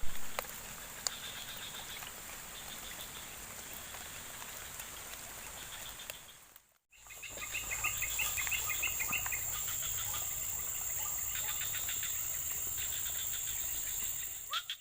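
Outdoor nature ambience: insects keep up a steady high-pitched drone while birds chirp and trill over it. The sound drops out briefly about seven seconds in, then comes back louder.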